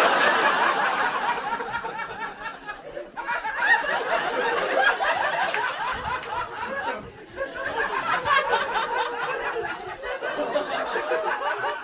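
Comedy club audience laughing hard, with several distinctive high, squawking laughs standing out of the crowd. The laughter comes in waves, dipping briefly about three seconds in and again about seven seconds in before swelling back.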